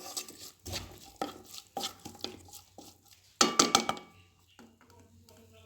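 A utensil stirring in a cooking pot, knocking against it about every half second. About three and a half seconds in comes a louder, ringing clatter of metal, then it goes quiet.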